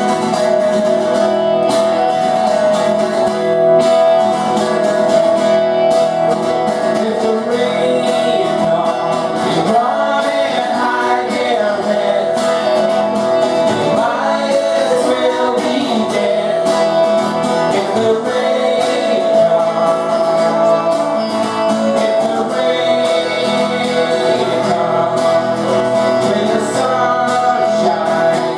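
Acoustic guitars strummed and picked, with a singing voice over them.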